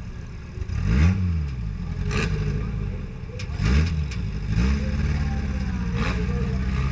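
Mini-car demolition-derby car's engine revving up and falling back twice, then holding steady at higher revs. Several sharp knocks and clatter come through it, heard from aboard the car.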